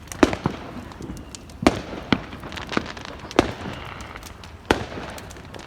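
Fireworks going off: about seven sharp bangs at uneven intervals, over a continuous background of noise.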